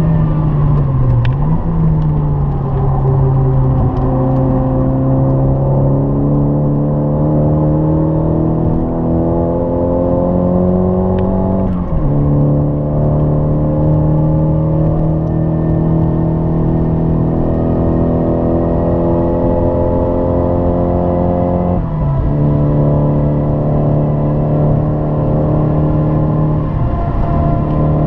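Nissan 200SX's turbocharged four-cylinder engine heard from inside the cabin, pulling hard under load with its pitch climbing steadily. The pitch drops sharply twice, about ten seconds apart, at upshifts, and then climbs again.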